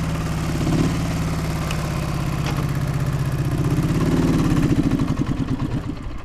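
Yamaha MT-10's inline-four engine running at a steady low speed, then slowing into spaced-out pulses and dying near the end: a stall. The rider suspects it is firing on only one cylinder.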